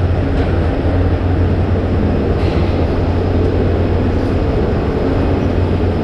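Steady, loud mechanical rumble with a constant low hum from bulk loading plant filling a truck trailer.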